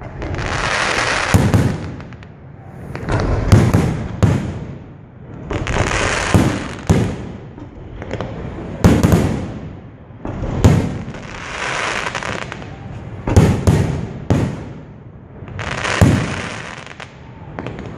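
Aerial firework shells bursting overhead: a series of sharp bangs every couple of seconds, each followed by a second or two of crackling hiss as the stars burn and fall.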